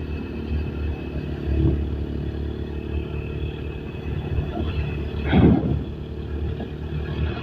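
Single-cylinder engine of a TVS Apache RTR motorcycle running steadily under way, with road and wind noise. A brief louder rush of noise comes about five and a half seconds in.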